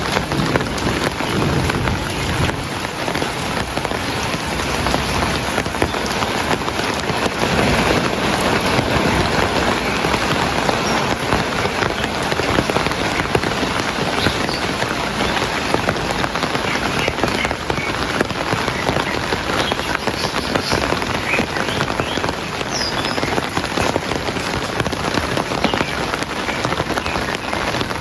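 Heavy rain falling steadily, a dense even hiss of pattering drops. A rumble of thunder dies away in the first couple of seconds.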